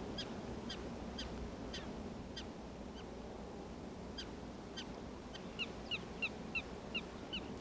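Prairie dogs calling: short, high chirping barks, faint and scattered at first, then coming steadily about two or three a second from about halfway through.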